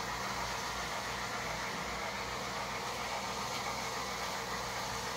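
Steady background hum with an even hiss, unchanging throughout, with no distinct knocks or voices.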